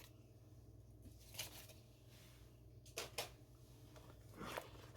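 Faint handling of a cardboard hair-dryer box: about four brief rustles and taps over a low steady room hum.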